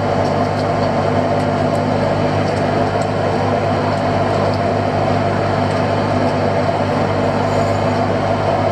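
A fishing boat's engine running steadily at constant speed, a continuous low drone with a steady hum over it.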